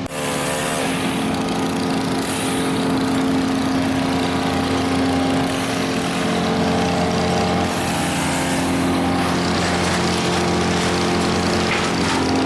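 Small petrol engine running at a steady speed, its pitch unchanging, starting abruptly at the outset.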